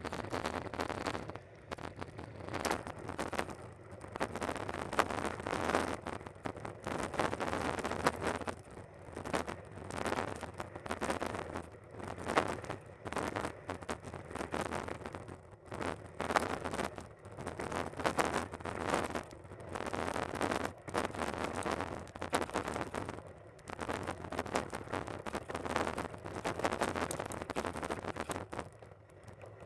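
Riding noise from a bicycle on a trail: a continuous rushing rattle of wind and tyres that swells and fades every second or two.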